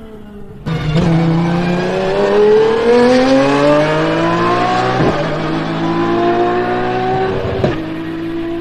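Lamborghini Essenza SCV12's naturally aspirated V12 accelerating hard, cutting in loudly under a second in. Its pitch climbs steadily, drops with an upshift about five seconds in, climbs again, and drops with a second upshift near the end.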